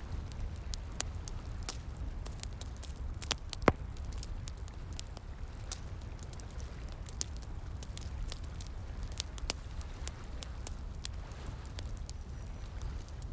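Wood fire crackling, with irregular small pops and one loud snap a little over a quarter of the way in. Steady flowing water runs underneath.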